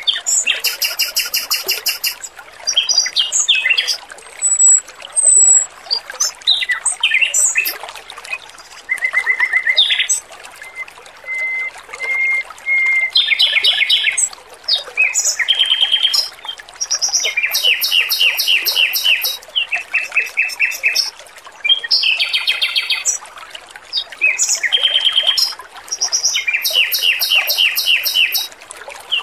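Male Pekin robin (red-billed leiothrix) singing, one rapid trilled phrase after another with short pauses between, over a faint steady trickle of running water.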